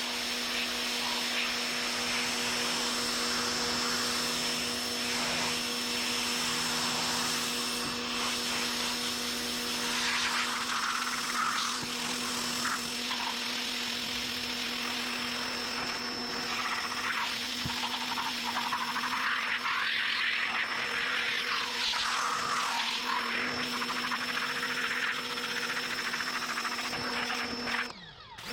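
Electric pressure washer running with a steady motor hum, its water spray hissing louder and softer as it plays over the car's body. The hum drops out briefly near the end.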